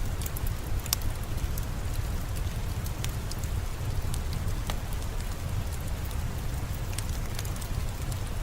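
Steady rain over a low rumble, with scattered sharp crackles and pops from a wood fire.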